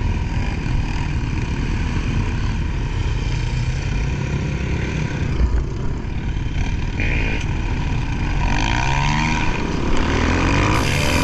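Enduro dirt bike engine running hard, its pitch sweeping up and down with the throttle about two-thirds of the way through.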